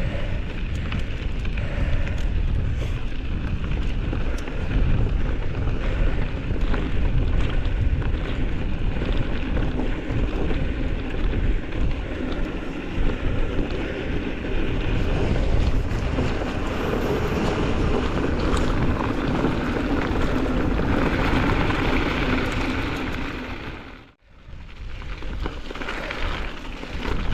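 Strong wind buffeting the microphone of a moving bicycle, a loud steady rumble heaviest in the low end. It drops out briefly near the end, then comes back.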